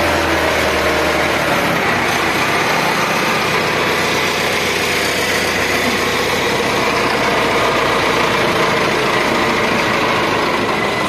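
Tractor engine running steadily, just after being push-started in cold weather because its battery is too weak to crank it. A low rumble under it fades out in the first couple of seconds.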